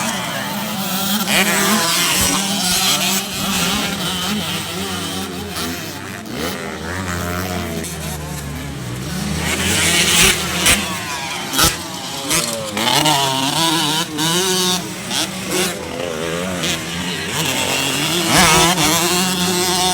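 Racing motorcycle engines revving hard, their pitch rising and falling again and again.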